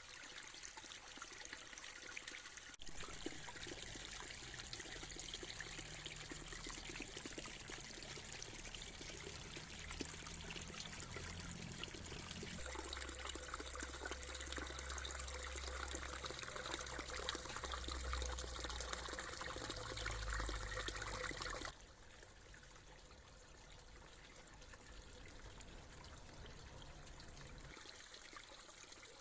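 Water trickling steadily into a pond. It gets louder suddenly about three seconds in, with a low rumble underneath through the middle part, then drops abruptly to a quieter trickle about 22 seconds in.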